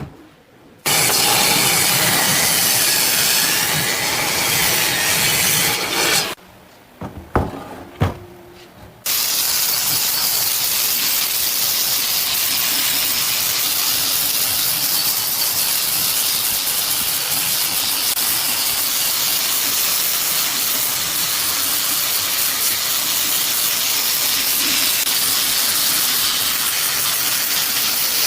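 Steady loud hissing noise, like a jet of spray or air. It cuts out for about three seconds partway through, when a few sharp knocks are heard, then resumes.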